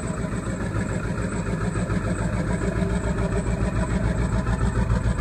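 Ford 7.3 Powerstroke V8 turbo diesel idling rough on a cold start, running on four cylinders because the whole left bank is not firing, growing a little louder. The owner wonders whether a bad injector driver module (IDM) is the cause.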